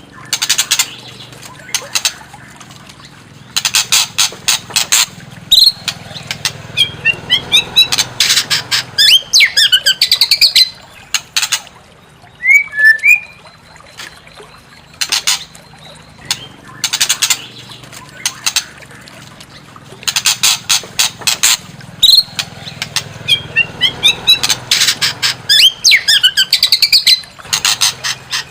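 White-rumped shama (murai batu) song: bursts of rapid dry rattling clicks alternating with short clear whistled notes and glides, the pattern repeating every few seconds.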